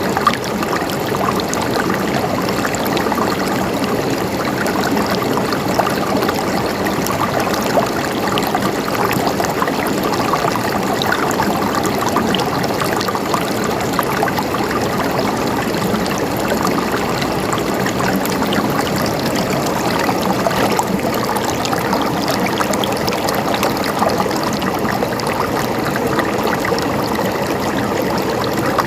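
Running water gurgling and trickling steadily, like a small stream, with a dense patter of tiny splashes and no change throughout.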